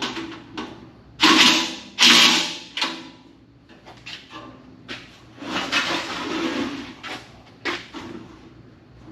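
Handling noises while parts and hardware are worked on during assembly of a belt and disc sander stand: two loud scraping or rustling bursts, a longer rustling stretch midway, and several sharp knocks and clicks.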